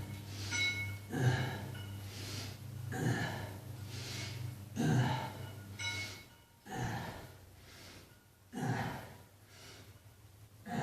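A person breathing hard from strenuous exertion: loud gasping breaths, about one a second at first, then further apart. A low steady hum sits under the breaths and stops about two-thirds of the way through.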